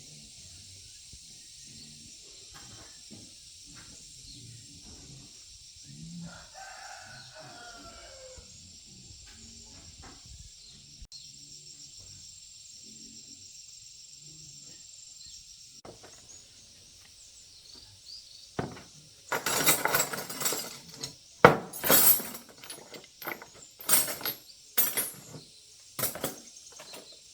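A rooster crows once, about seven seconds in, over a steady high insect drone. From about nineteen seconds a run of loud, sharp clacks and knocks follows, the clatter of motorbike parts being handled during the strip-down.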